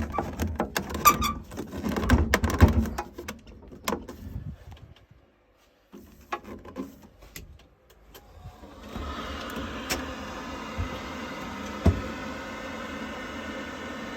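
Clicks and knocks of plastic parts being handled and pushed into place in a Worcester Bosch 30i boiler, then from about nine seconds in the boiler's fan starts and runs with a steady hum.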